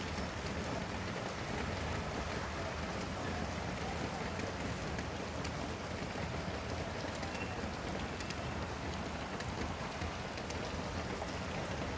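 Steady rain falling on a surface, with a constant hiss and scattered drop ticks.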